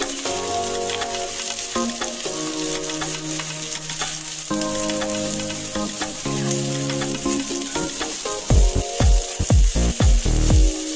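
Diced onion sizzling as it fries in oil in a pot, stirred with a spatula, under background music. A strong bass beat comes into the music about eight and a half seconds in.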